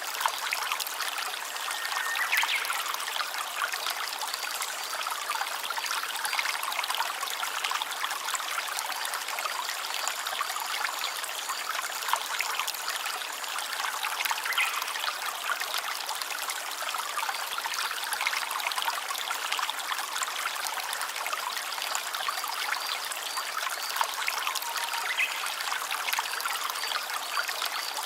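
A small stream trickling and splashing steadily over stones.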